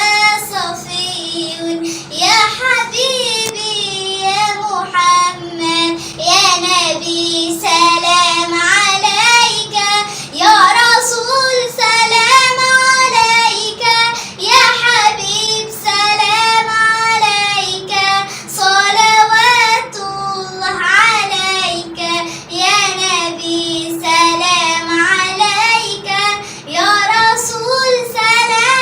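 A young girl singing an Arabic praise song to the Prophet solo, in long held phrases with vibrato and ornamented runs, pausing briefly for breath between lines.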